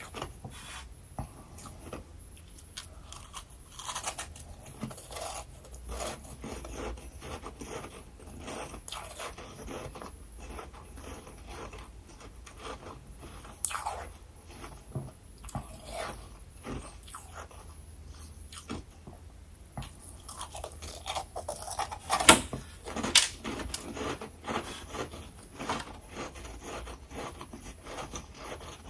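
Someone biting and chewing freezer frost close to the microphone: an irregular stream of crisp crunches, with the loudest bites about three-quarters of the way through.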